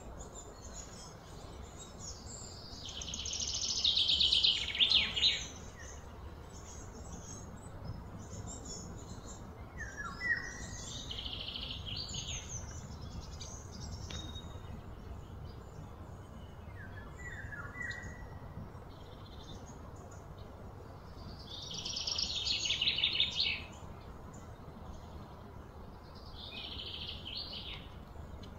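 Birds calling: two loud bursts of harsh, rapid chirping, a few seconds in and again later, with a few shorter chirps between.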